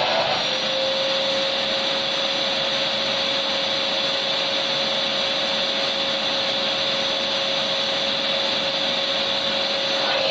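Vacuum cleaner motor running steadily: an even rushing hiss with a constant whine on top, unchanging throughout.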